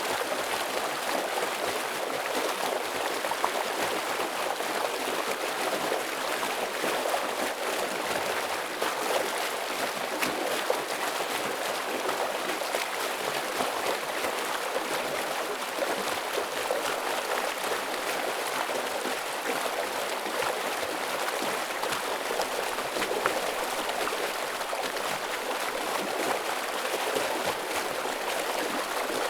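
Fast-flowing forest stream rushing over rocks, a steady dense splashing and gurgling of water.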